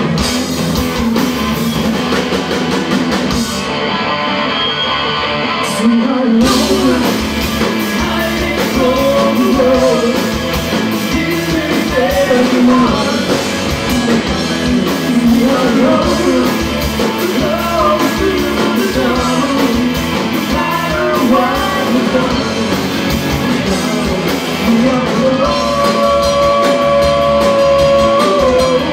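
Live rock band playing a song: electric guitar, bass and drums with a singer. The cymbals drop out briefly and the full band crashes back in about six seconds in, and a long held note rings out near the end.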